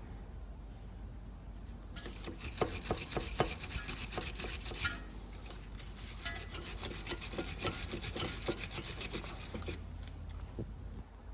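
Scraping and rasping with rapid, irregular clicks, starting about two seconds in and stopping shortly before the end.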